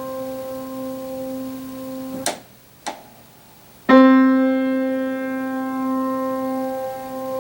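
A single piano note sounding and then cut off abruptly by the dampers, with a soft click as it stops and another a moment later. After about a second of near silence the same note is struck again with a clear hammer attack, and it rings and slowly decays.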